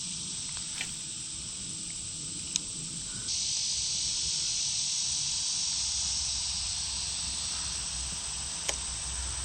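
Steady high-pitched chorus of insects, getting louder about three seconds in, with a few faint clicks.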